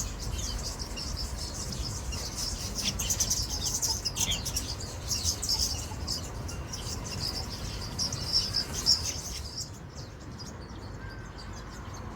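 Small birds chirping and twittering rapidly in a busy, high-pitched chorus that stops about ten seconds in, over a low rumble like wind on the microphone.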